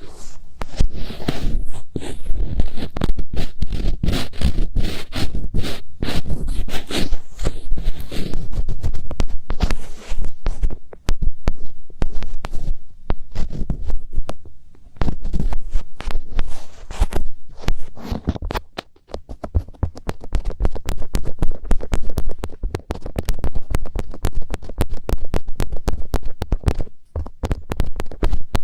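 Fingertips rubbing and scratching on a microphone's ears, heard very close, giving irregular scratchy strokes with muffled rumbling. About two-thirds of the way through, the strokes turn quicker and finer, into a fast, even scratching.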